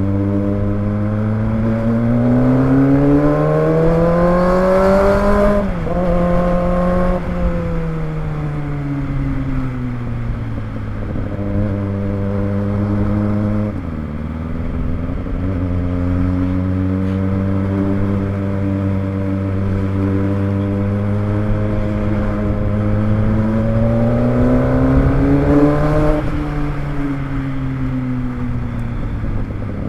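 Kawasaki ZX25R's 249 cc inline-four engine running under way. The engine note rises for about five seconds, drops sharply at a gear change, falls as the bike slows, then holds steady. Near the end it climbs again and drops sharply at another shift.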